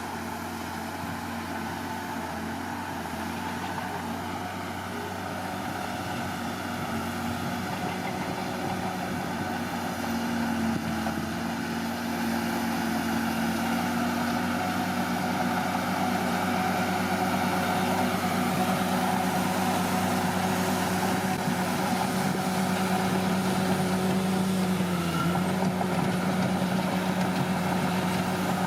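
Komatsu D41P bulldozer's diesel engine running steadily, picking up revs and getting louder about ten seconds in, with a brief dip in pitch near the end.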